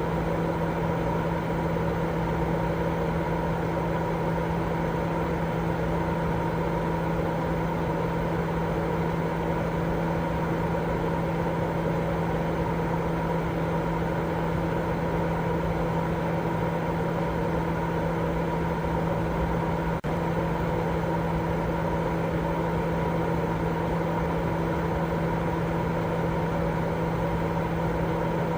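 Steady white noise for lulling a baby to sleep: a constant rushing sound with a low, even hum running through it, broken only by a very brief dip about twenty seconds in.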